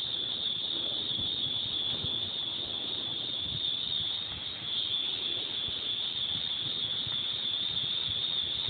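A continuous shrill, high-pitched buzzing drone that holds steady without a break, from a source that the listener cannot identify and finds really annoying.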